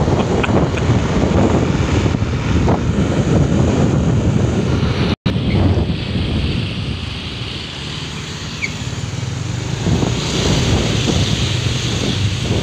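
Vehicle on the move: engine and road noise with wind buffeting the microphone. The sound cuts out abruptly for an instant about five seconds in.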